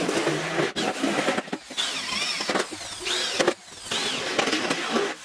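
A power tool running during metal fabrication of a washing machine, with a squeal that rises and falls several times, roughly once a second.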